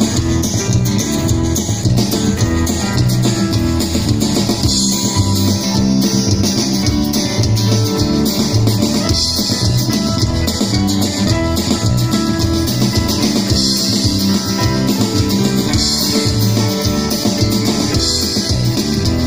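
Instrumental intro of a rock song: guitar over a drum kit keeping a steady beat, without vocals.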